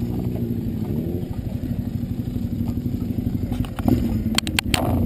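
Ducati 848 Evo's L-twin engine idling as the motorcycle rolls slowly and stops. A few sharp clicks and knocks come close together about four and a half seconds in.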